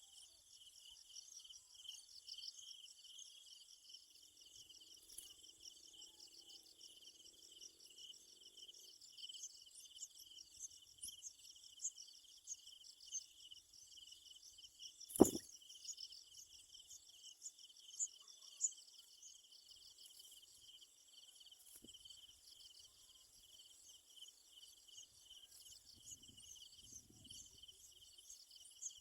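A steady, high-pitched chorus of insects, a rapid pulsing chirr that does not let up. A single sharp click sounds about halfway through, the loudest moment, with a few faint ticks around it.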